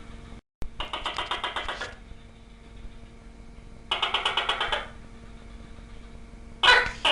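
Tokay gecko calling: two rapid rattling bursts, each about a second long, then a loud two-part call near the end.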